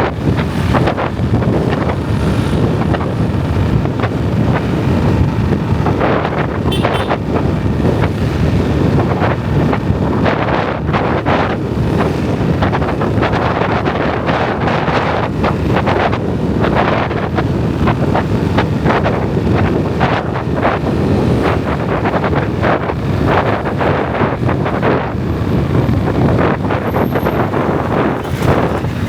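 Wind buffeting the microphone on a moving motorbike, a steady low rumble with the bike's engine and road noise beneath it.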